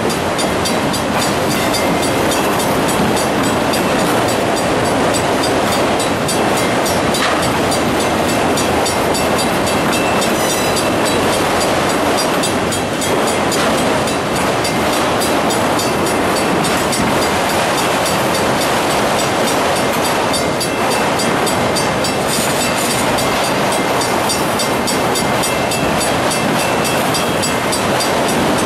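Freight train of autorack cars rolling steadily past a grade crossing, its wheels running over the rails. A railroad crossing signal bell rings in rapid, even strokes throughout.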